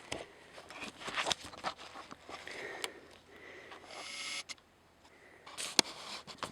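Scattered clicks, light knocks and rustling, like handling noise, with a short hiss about four seconds in.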